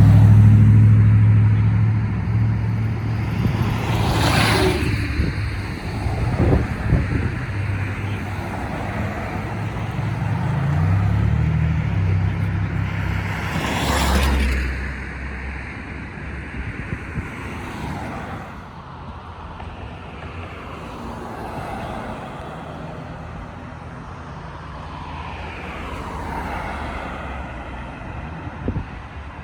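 Road traffic: an engine idles with a steady low hum through the first half, and vehicles pass by with a loud whoosh twice, about four and fourteen seconds in. After that it is quieter, with fainter vehicles passing.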